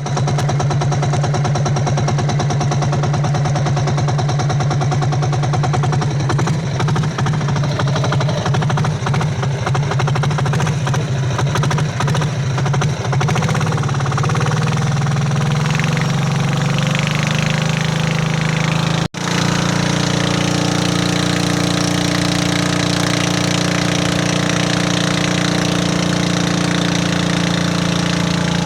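Hitachi backhoe's diesel engine running with a rapid rattling chug. The sound breaks off for an instant about two-thirds of the way through, then the engine runs on more evenly.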